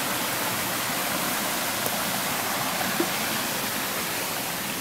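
Water from a jungle spring running steadily, a constant rushing and splashing.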